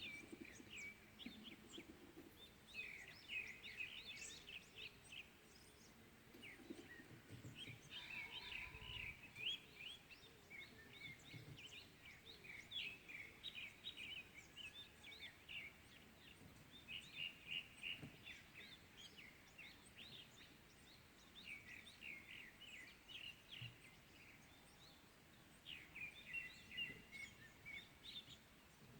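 Faint chorus of small songbirds chirping and singing in quick, repeated high notes, with brief pauses between phrases.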